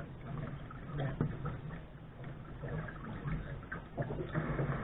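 Water sloshing and splashing against the bow of a Lark sailing dinghy under way, irregular short splashes over a steady low rumble.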